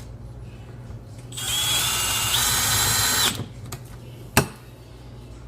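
Power drill/driver running for about two seconds, its motor whine stepping up in pitch partway through as it drives a fastener, then stopping. A single sharp click follows about a second later.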